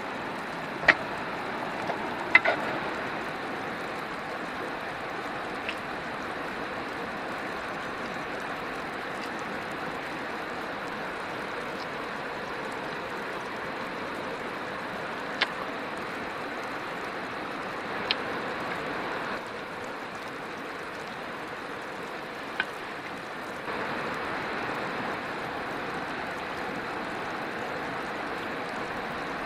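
Steady rushing water noise, with a few faint sharp clicks scattered through it.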